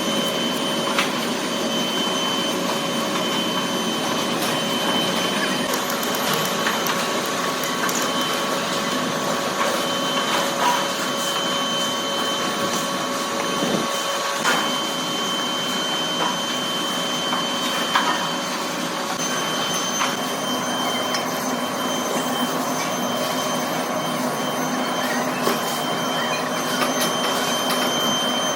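Workshop machinery running steadily: a motor hum with several steady whines, and now and then a short click or knock.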